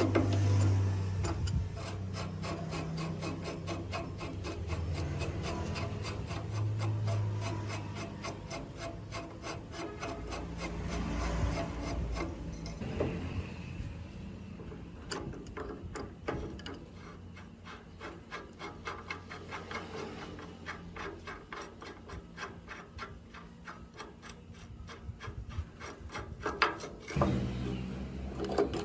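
Steady, even back-and-forth rubbing or filing strokes, a few per second, with a low hum under the first several seconds.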